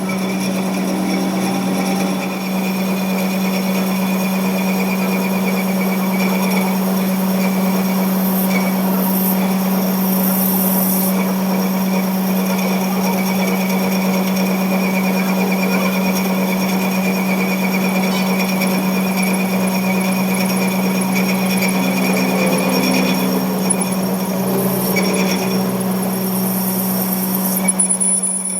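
A workshop machine or power tool running steadily, with a constant low hum under an even mechanical noise, cutting off at the end.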